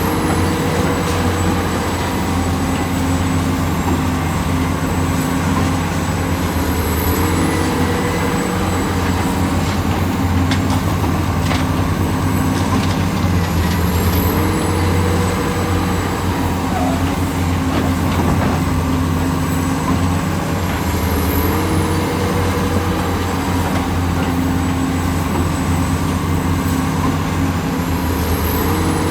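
Heavy diesel construction machinery running steadily under load, with a shift in engine pitch that comes back about every seven seconds, like a repeating work cycle.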